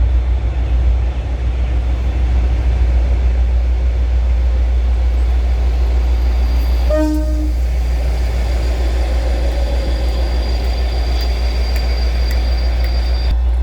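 A train running past with a steady rumble. It gives one short horn toot about halfway through.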